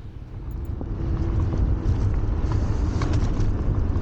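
Wind rumbling on the microphone and road noise from a Wolf Warrior 11+ electric scooter in motion. The sound grows louder about a second in as the ride picks up and then holds steady, with a few faint ticks.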